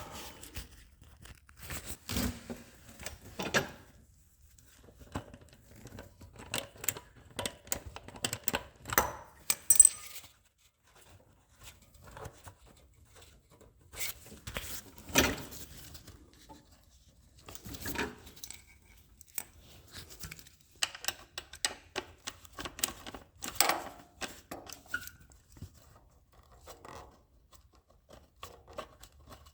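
Hand tools and metal and plastic parts being worked while an 8 mm bolt and intake parts come off a generator: scattered, irregular clicks, clinks and short scrapes with quiet gaps between them.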